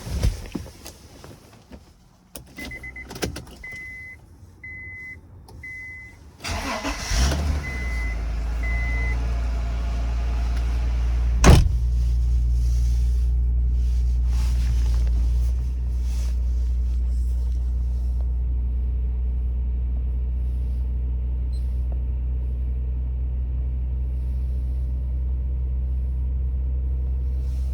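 A 2004 Acura 3.5RL's 3.5-litre V6 is cranked from cold and catches after about a second, then settles into a steady fast cold idle that eases slightly a few seconds later. A single high warning chime beeps about once a second before and during the start. There is a loud thump at the very beginning and a sharp click a few seconds after the engine catches.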